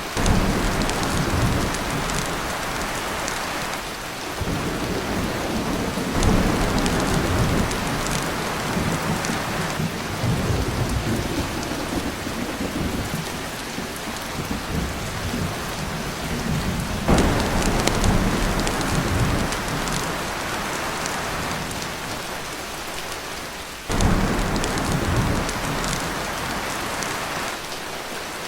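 Heavy rain falling steadily on a tin roof, with rolls of thunder rumbling in several times, each starting suddenly and fading over a few seconds.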